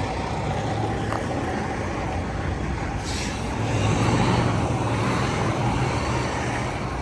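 Semi truck's diesel engine running steadily as the rig is manoeuvred, swelling a little around four seconds in, with a brief hiss about three seconds in.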